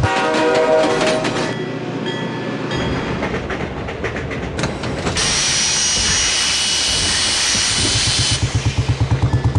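A train coming to a stop: a pitched tone at the start, clattering, then a long steady hiss that cuts off a little after eight seconds in. Near the end the Royal Enfield Bullet's single-cylinder engine comes back in with its rapid, even thump.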